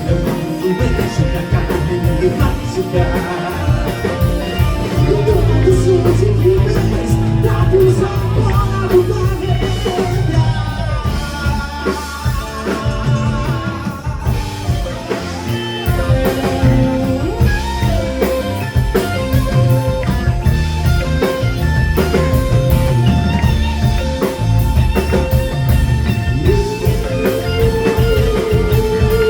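Live progressive rock band playing, with a sustained, bending lead line over bass and drums.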